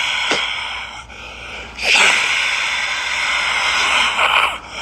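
A man making long, breathy hissing sounds with his mouth, twice, in imitation of the roar of a crowd.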